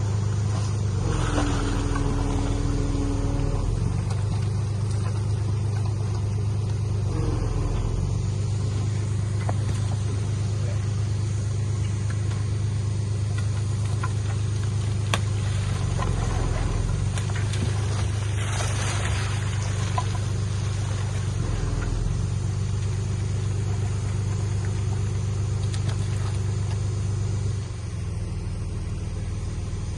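Diesel engine of heavy earthmoving equipment running steadily, with its pitch and load shifting a little and a few sharp knocks.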